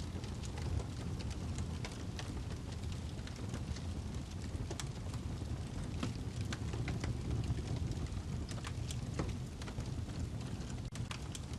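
Wood fire burning in a fireplace, crackling: irregular sharp pops and snaps from the burning log over a steady low rumble.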